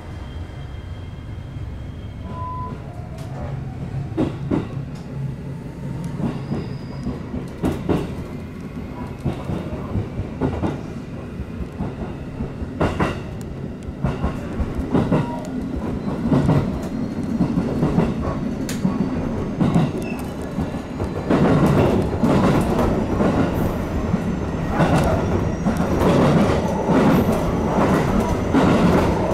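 Local train pulling out and picking up speed, heard from inside the front cab: a steady rumble with a faint whine slowly rising in pitch, and wheels clicking over rail joints and points. The running noise grows louder and the clicks come more often as it speeds up.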